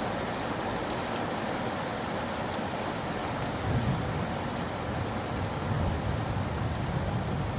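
Steady rain falling, with scattered sharper ticks of single drops. About halfway through a low rumble comes in and carries on under the rain.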